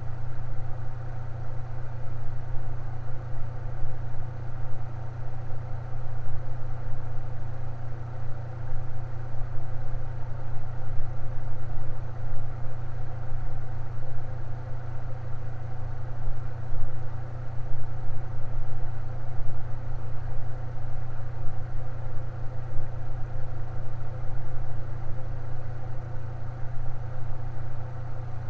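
Electric fan running steadily: a constant low motor hum under a fainter, even whir.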